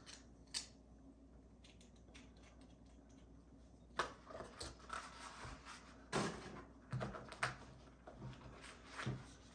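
Hands handling unboxing packaging and small plastic accessories: scattered light clicks, taps and rustles, a handful of them clustered in the second half.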